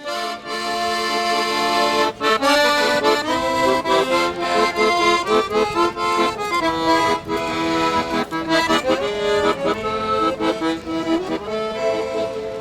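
Accordion playing a lively tune, with held chords and quick note changes.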